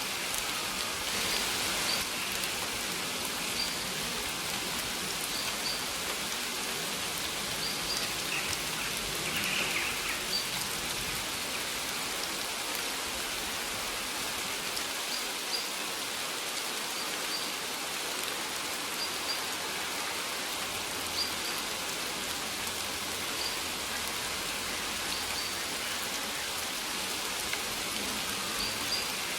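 Steady rain falling, with short high bird chirps repeating every second or two over it.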